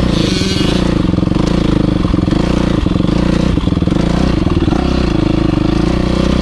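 Motocross bike engine running steadily under throttle, its pitch shifting a little up and down.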